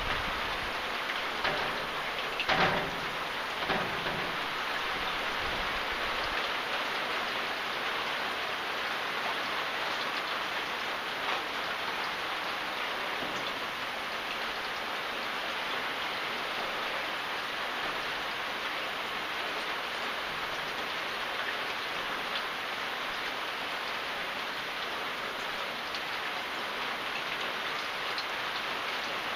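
Rain falling steadily, an even hiss of drops on surfaces. A few louder thuds sound in the first four seconds.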